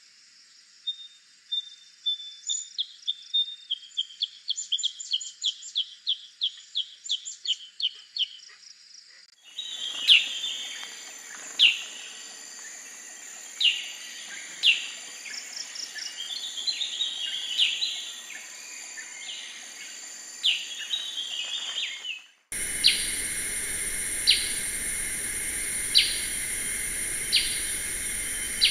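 Black-headed bulbul calls from spliced recordings. First a quick run of sharp chirps, then single sharp down-slurred calls mixed with short chattering runs, and, after an abrupt cut, single sharp calls about every one and a half seconds over a steady high hiss.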